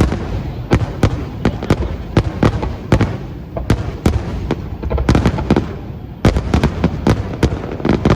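Fireworks display: a dense, irregular barrage of sharp bangs from launching and bursting shells, several a second, over a continuous low rumble.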